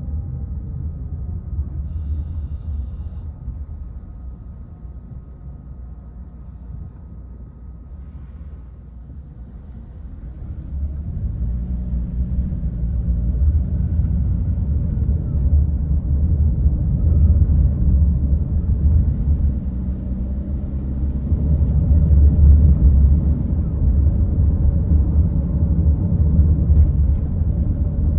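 Low rumble of a car driving, heard from inside the vehicle: road and engine noise that grows louder about ten seconds in and stays loud.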